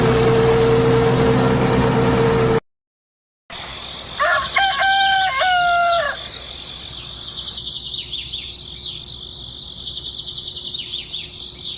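A loud steady noise with a hum cuts off abruptly into a second of silence. Then a rooster crows once, about four seconds in, followed by small birds chirping over a steady high-pitched hiss.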